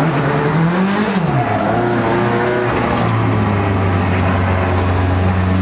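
Mercedes M111 four-cylinder engine in a BMW E92 drift car, heard from inside the cabin. The revs rise for about a second and drop away, come up briefly again, then hold steady.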